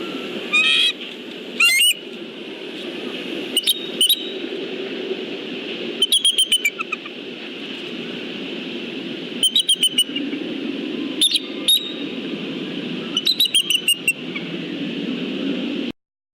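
Bald eagles calling: about seven quick series of sharp, high, chittering notes, each a rapid string of several calls, over a steady background hum. The sound cuts off abruptly near the end.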